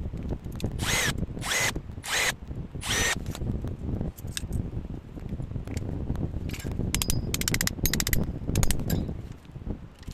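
Handheld power drill run in four short bursts with a rising whine, between about one and three seconds in. A quick run of clicks follows later, over a low rumble of handling noise.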